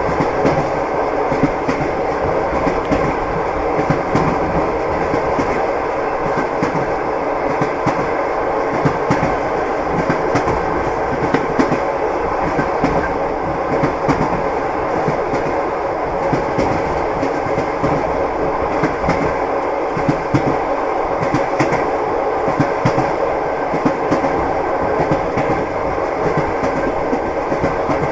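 Train wheels clattering over rail joints, heard as a steady rumble with a running stream of clicks and knocks.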